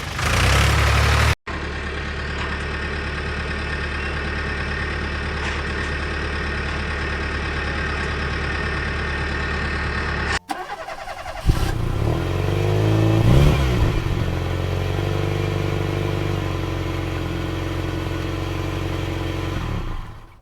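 A vehicle engine running steadily at a low idle. After an abrupt cut it revs up and back down, then settles into a steady run again.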